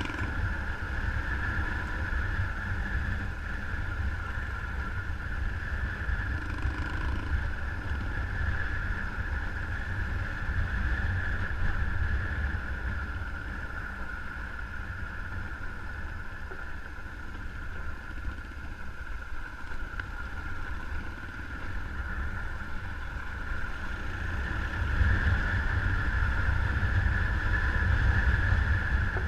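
Motorcycle engine running steadily while riding, with wind rumbling on the microphone. It eases off in the middle and grows louder again near the end.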